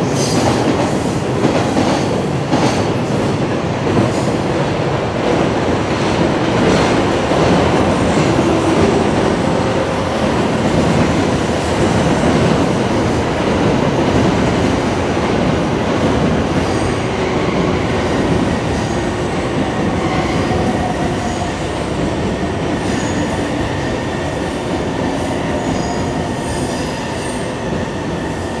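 Freight train passing at speed: a steady heavy rumble of steel wheels on rail. There is a rapid clatter over rail joints in the first few seconds and a faint high wheel squeal through the middle. The sound slowly fades over the last several seconds.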